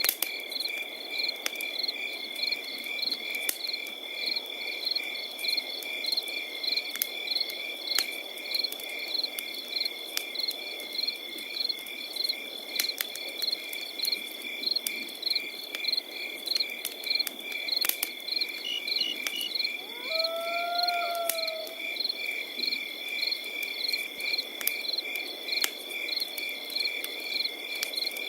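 Crickets chirping in a steady chorus: a continuous high trill with regular chirps about three a second. Under it a campfire crackles with scattered sharp pops. About two-thirds of the way through, one short call from another animal sounds once.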